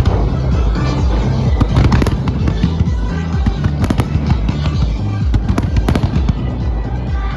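Aerial fireworks bursting in quick succession, a string of sharp bangs and crackles with clusters about two, four and six seconds in, over loud dance music with a heavy bass beat from the show's sound system.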